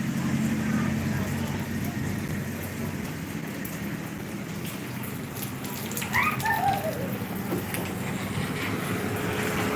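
Steady rain, with the low hum of a vehicle engine underneath. About six seconds in, a short call falls in pitch over a few notes.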